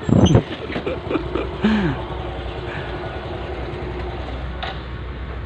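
Motorcycle engine idling steadily, with a few short voice-like sounds in the first two seconds.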